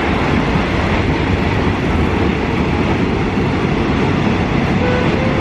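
Train running along the rails: a steady, dense rumble of wheels and carriages.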